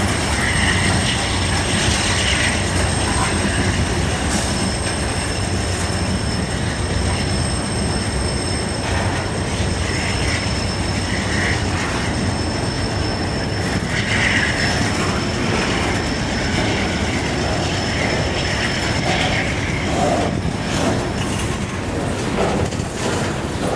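Freight cars of a CSX train rolling past at close range: a steady rumble of steel wheels on rail. A thin, high, steady wheel squeal rides over it and dies out about two-thirds of the way through.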